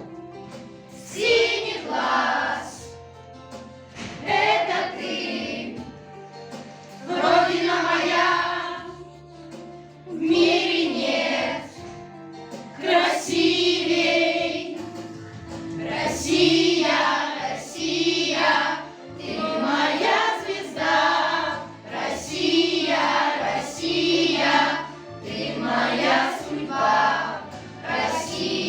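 A children's choir singing a song in phrases of a second or two, over a steady instrumental accompaniment.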